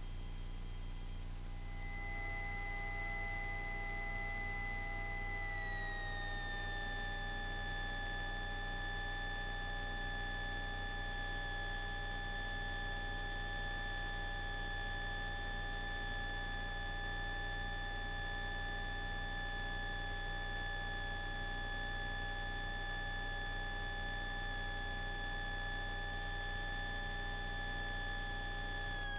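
Cessna 172S Skyhawk heard through the cockpit intercom audio while its engine runs on the ground: a steady low hum with a high electrical whine. The whine drops in pitch about six seconds in and again at the very end as the engine speed changes.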